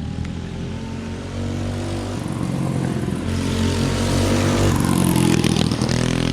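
Small single-cylinder four-stroke mini-bike engine (a Harbor Freight Predator) running hard, its pitch stepping up and down a few times as it grows louder.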